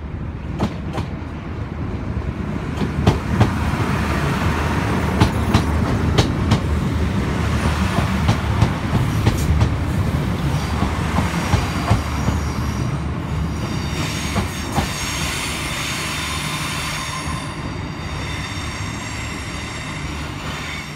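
Northern Ireland Railways diesel multiple unit running past close alongside the platform: a low rumble with repeated sharp clicks of wheels over rail joints, then from about two-thirds of the way in a high, many-toned wheel squeal.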